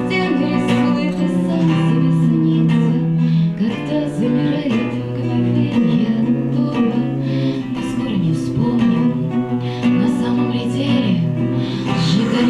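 Live acoustic music: a strummed acoustic guitar with a slow, sliding melody line held above it.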